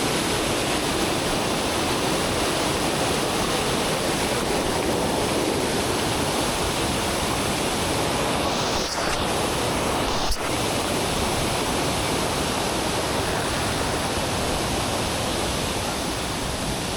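Steady, loud roar of rushing water, such as a monsoon waterfall, with a brief click about ten seconds in.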